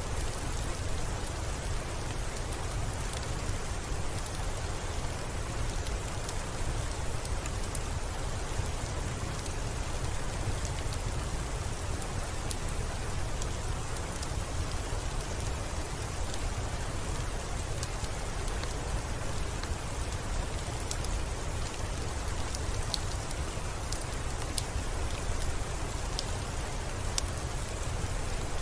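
Steady rain falling with a deep rumble underneath, and scattered sharp crackles of a wood fire in a fireplace.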